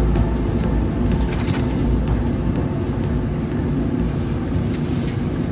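Shinkansen Nozomi running at speed, heard from inside the carriage: a steady, loud low rumble and rushing noise.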